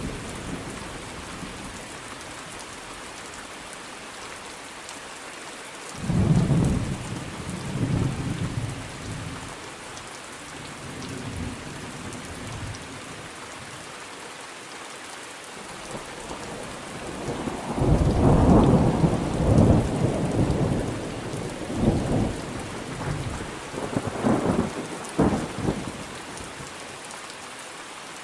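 Thunderstorm: steady rain hissing throughout, with rolls of thunder rumbling in about six seconds in and again around eight seconds, then a longer, louder run of rumbling cracks from about seventeen to twenty-six seconds.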